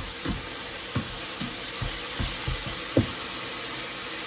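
Steady hissing background noise from food cooking on the stove, with soft knocks and taps scattered through it.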